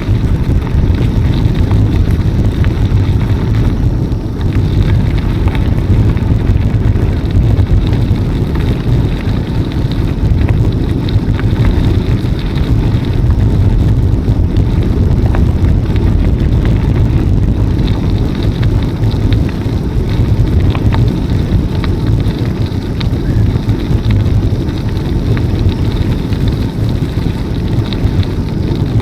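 Wind buffeting the microphone of a camera riding on a moving bicycle, a steady low rumble, with scattered small ticks and rattles.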